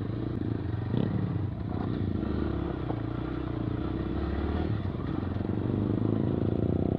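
Yamaha MT-15's single-cylinder engine running steadily at low revs through a modified aftermarket exhaust.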